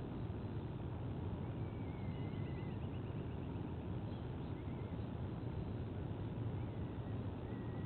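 Steady low rumble of outdoor background noise, with a few faint, high wavering bird whistles and a quick run of chirps about two to three seconds in.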